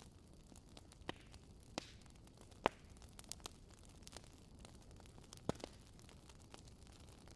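Campfire crackling: scattered sharp pops at irregular intervals, the loudest about two and a half seconds in, over a low steady hiss.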